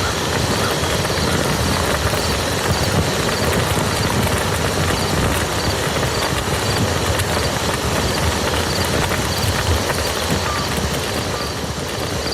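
Steady rain falling on a muddy field, a dense even hiss of many small drop impacts.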